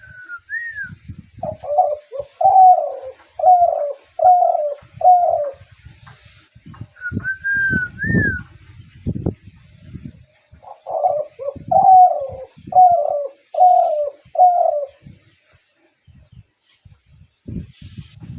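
Spotted dove cooing: two runs of about five low coos each, each run lasting about four seconds, with a higher whistled note just before each run. Dull low thumps sound in between, loudest about eight seconds in.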